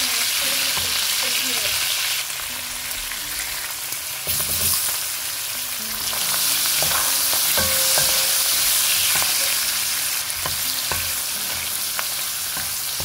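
Fish pieces sizzling as they fry in hot oil in a nonstick wok, with a wooden spatula scraping and knocking against the pan. Chopped red onion goes in partway through and the frying carries on under stirring.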